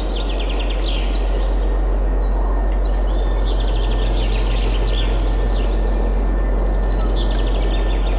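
Several songbirds singing rapid trilled phrases that come again and again, over a steady low rumble of wind.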